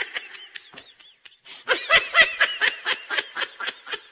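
Rapid, high-pitched laughter in quick repeated 'ha' pulses. It trails off just as it starts and comes back in a longer run from about a second and a half in.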